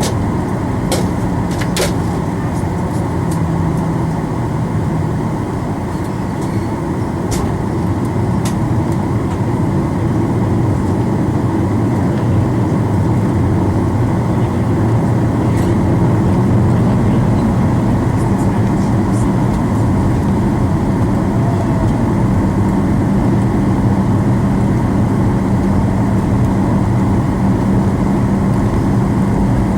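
Airliner cabin noise: the jet engines running as a steady low rumble with a hum that grows stronger partway through, and a few sharp clicks in the first several seconds.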